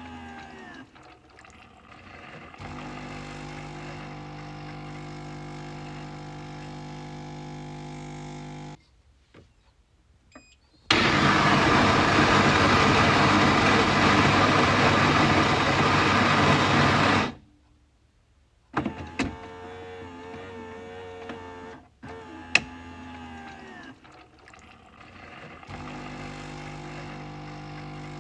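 Coffee machine running through a cycle. A steady motor hum for several seconds, a short pause, then about six seconds of much louder rushing noise. After that, clicks and the hum return.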